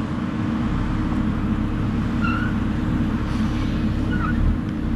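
Heavy diesel equipment engine running steadily with a deep drone, with two brief high chirps about two and four seconds in.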